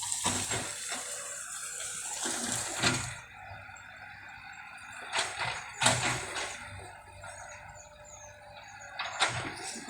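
Bamboo being knocked down by heavy equipment: a rustling hiss of stems and leaves, with sharp cracks of breaking bamboo about three seconds in, twice around five to six seconds, and again near the end.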